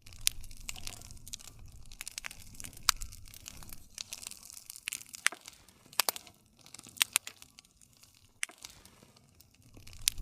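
Campfire crackling: burning wood giving off irregular sharp pops and snaps over a low, steady rumble of the flames.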